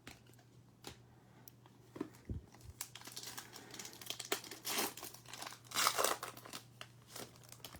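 Plastic wrapper of a Select football trading-card pack being crinkled and torn open: a few scattered clicks, then a crackling rustle that builds and is loudest about six seconds in.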